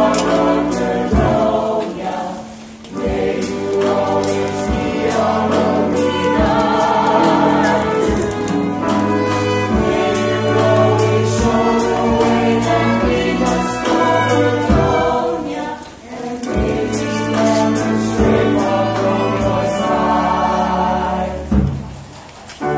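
A musical-theatre ensemble singing in chorus, backed by a small pit band with bass and drums. The music drops away briefly a few times between phrases.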